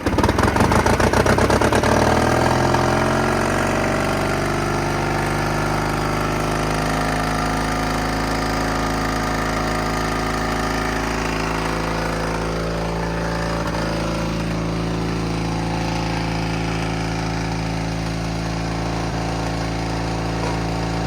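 Vintage truck engine running fast just after starting, its revs falling over the first few seconds and then settling into a steady idle.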